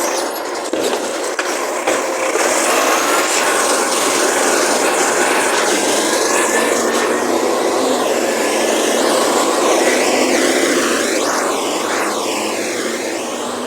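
Recycling garbage truck running, with a mechanical whine that rises in pitch and then sweeps up and down several times near the end.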